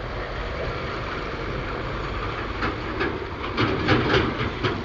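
River water splashing over a steady noisy rumble, with a cluster of sharper splashes in the second half.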